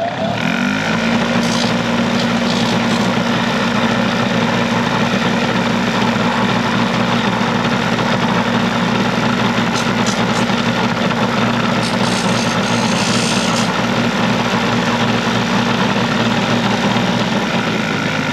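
Handheld electric power tool running steadily at constant speed while cutting sheet-metal trim, with an even motor hum and cutting noise that stop near the end.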